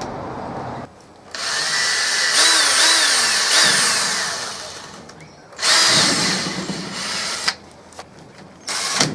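Power drill driving screws through scrap plywood steps into PVC pipe. It runs in bursts: one long run of about four seconds with the motor's pitch dipping and rising, then a shorter run of about two seconds, with a brief burst near the end.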